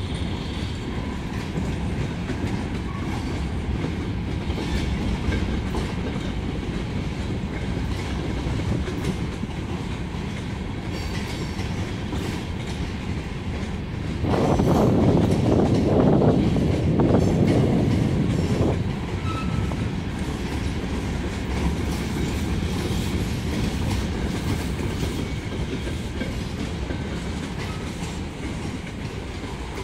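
Freight train of covered hopper cars rolling past close by: a steady rumble of wheels on rail with scattered clicks. For about four seconds midway through, the rumble grows louder and rougher.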